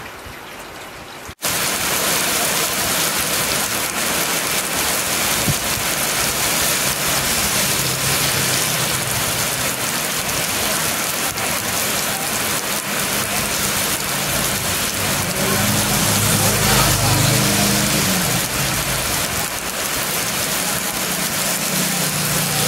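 Heavy rain pelting a wet paved road and curb, a dense steady hiss of splashing drops that comes in loud about a second and a half in. A low engine hum from passing traffic comes and goes underneath, strongest about two-thirds of the way through and again near the end.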